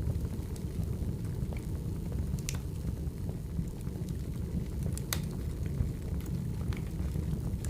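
Firewood burning: a steady low rumble of flames with scattered sharp crackles and pops, the loudest about five seconds in.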